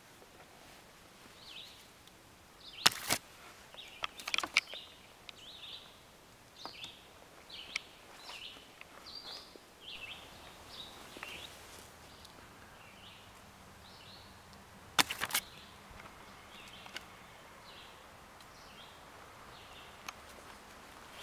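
Woodland birds giving short, high chirping calls on and off, with a few sharp knocks close by, the loudest about three seconds in and about fifteen seconds in.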